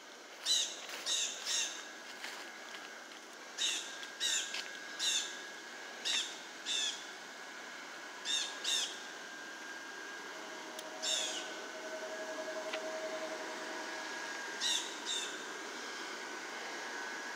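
A bird giving short, sharp calls, mostly in groups of two to four, repeated every few seconds over a steady faint hum.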